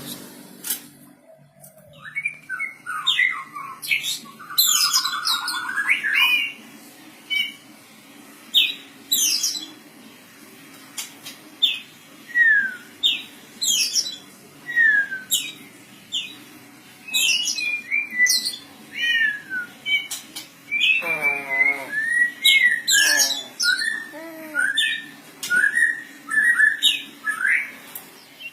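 Oriental magpie-robin (kacer) singing: a long run of short, varied whistled notes, many of them quick downward slides, with a buzzy, wavering phrase about two-thirds of the way through.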